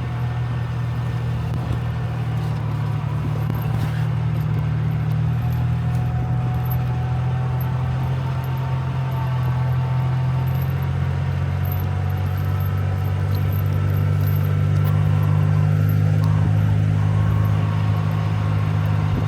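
Vehicle engine running steadily, its note shifting slightly about ten seconds in and growing a little louder toward the end.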